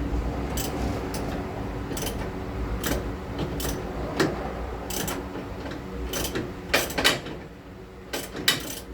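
Irregular metal clicks and clanks of hand tools working on a car's front suspension, sharpest about seven seconds in and again near the end, over a steady low hum.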